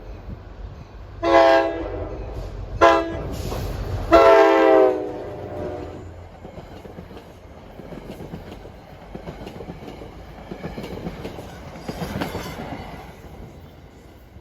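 NJ Transit commuter train sounding its multi-chime air horn as it reaches a grade crossing: a long blast, a short one and another long one, closing the crossing signal. The locomotive rumbles past, then the train rolls by with steady wheel clatter on the rails.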